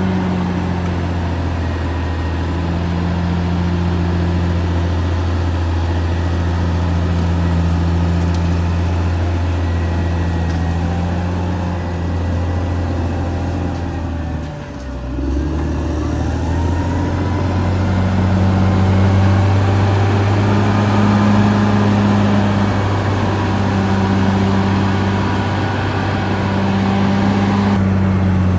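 Caterpillar D6R XL bulldozer's diesel engine running steadily at work. About halfway through, the engine note drops briefly, then picks back up.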